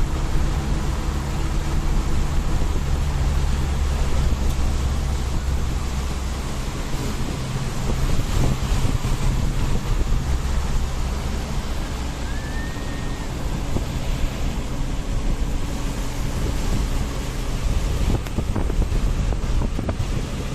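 Steady engine hum and rushing road and wind noise of a vehicle driving along a road.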